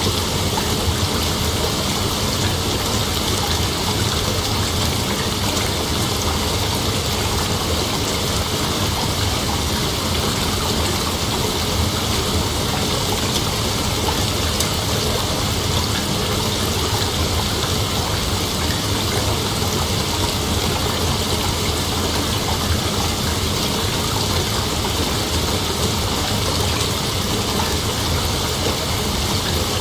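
A steady, dense chorus of night insects, a continuous high shimmering hiss with no break or change.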